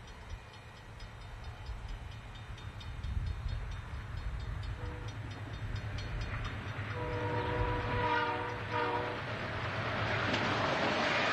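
Southern Pacific diesel locomotives pulling a freight train approach with a steady low engine rumble. The multi-note air horn gives a short toot about halfway, then a longer blast broken into a few parts for the grade crossing. Near the end the rumble swells into louder engine and wheel noise as the locomotives pass close.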